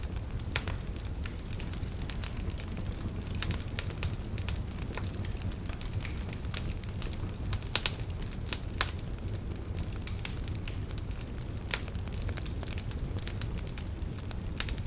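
Wood campfire burning, crackling with irregular sharp pops and snaps over a low steady rumble; a couple of louder snaps come near the middle.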